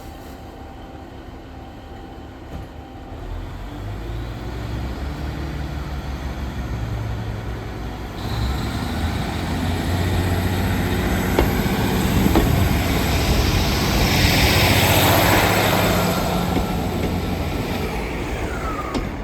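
Diesel train's engine building power as the train pulls away, with running noise getting louder; the sound steps up about eight seconds in and is loudest in the second half.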